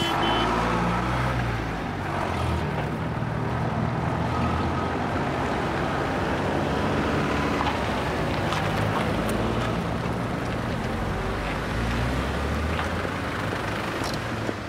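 Mitsubishi Pajero SUV's engine running steadily as it drives slowly across the car park and pulls into a parking space.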